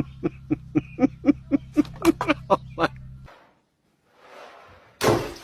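An animal giving a rapid run of short, pitched calls, about four a second and growing louder, over a steady low hum; both stop abruptly about three seconds in. A loud sudden noise follows near the end.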